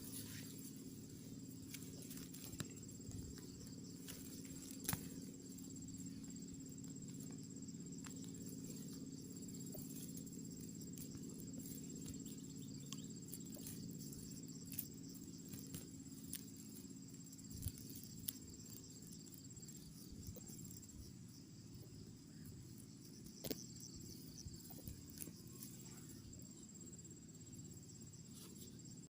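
Night insects, crickets among them, trilling steadily in one high, continuous tone, over a faint low hum, with a few scattered sharp clicks.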